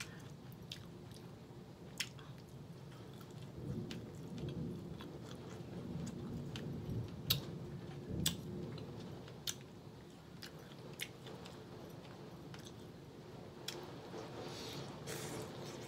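Close-up chewing of smoked turkey wing and sautéed cabbage, with scattered sharp mouth smacks and finger-licking.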